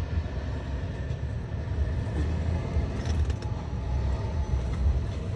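Wind buffeting the microphone: a steady, uneven low rumble, with a few faint clicks about three seconds in.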